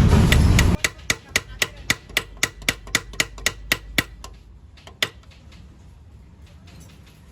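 A loud rushing noise cuts off under a second in. Then a run of about a dozen quick, light metallic taps, about four a second, and one last tap a second later: a bearing being tapped into a scooter gearbox housing.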